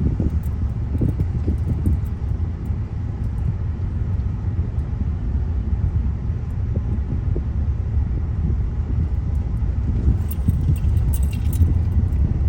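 Steady low rumble of a moving car heard from inside the cabin, with a few light clicks near the end.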